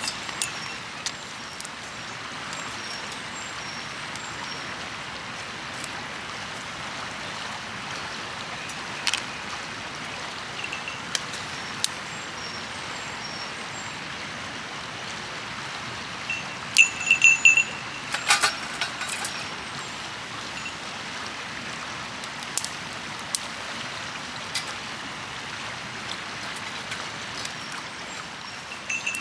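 A river flowing steadily beside the camp, with scattered sharp clicks throughout and a short run of louder metallic clinks about two-thirds of the way in.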